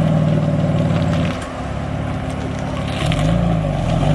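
Car engine running steadily, dropping in level about a second in; near the end the engine pitch briefly rises and falls again.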